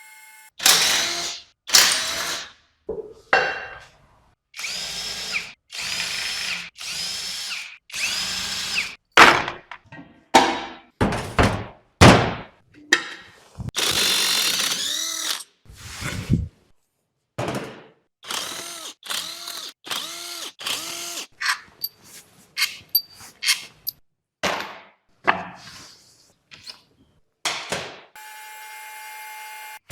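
A handheld power drill run in many short bursts, each spinning up and winding down in pitch, with brief gaps between them and one longer run about halfway through.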